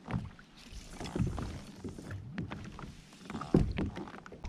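Irregular small knocks and water sounds against a fishing kayak's hull, with a brief patch of splashing hiss about a second in.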